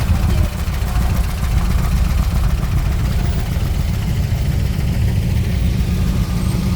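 A car engine idling steadily, its sound mostly low-pitched.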